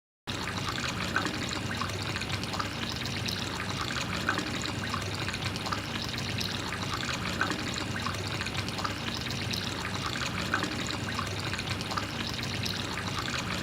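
Water trickling and pouring steadily, with small splashes scattered through it.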